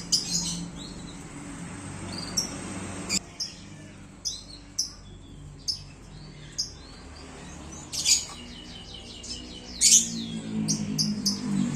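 Canaries in a colony aviary chirping: scattered short high calls, with brief rapid trills about two-thirds of the way in and again near the end.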